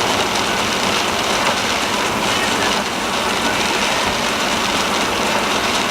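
Steady road noise from inside a moving car: tyres and engine running at an even pace.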